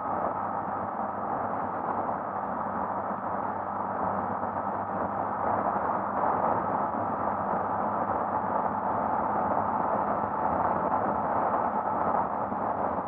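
Steady wind rush and engine drone from a Honda XRE 300 single-cylinder motorcycle riding at a constant pace, picked up by a bike-mounted action camera's microphone; it swells slightly about five seconds in.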